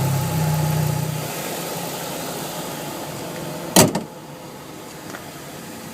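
A low steady hum fades out over the first second and a half. Just before four seconds in, a car's hood is shut with a single loud bang.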